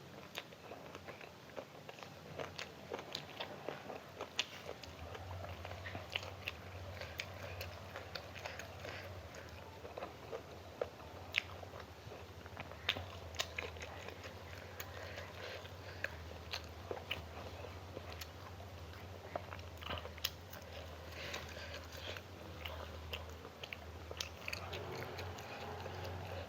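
Close-miked chewing and biting of food, with many small wet and crunchy clicks throughout. A low steady hum comes in about five seconds in.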